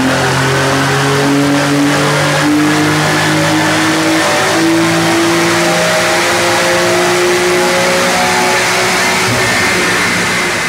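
The twin-turbo 3.0-litre flat-six of a Porsche 911 (992) Carrera S, fitted with an Akrapovič exhaust and with its petrol particulate filter removed, running hard under load on a chassis dynamometer. The engine is loud, and its pitch climbs steadily as the revs rise through a pull.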